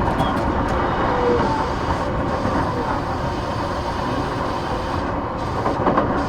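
Interior running noise of an E233-8000 series electric train car under way: a steady rumble of wheels on rail, with faint squeaks and a brief knock a little before the end.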